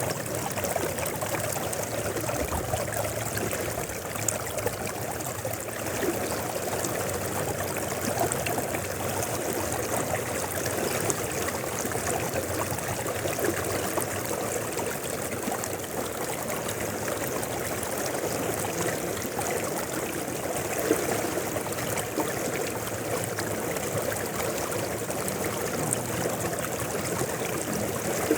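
Mountain river flowing steadily: a constant, even sound of running water.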